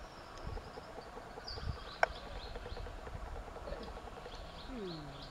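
Open-air riverside ambience with small birds chirping in short high notes throughout. A single sharp click about two seconds in is the loudest sound, and a short falling call is heard near the end.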